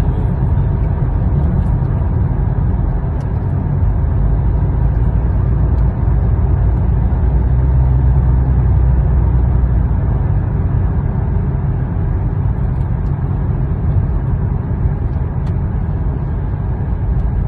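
Steady low rumble of a vehicle in motion, unbroken throughout.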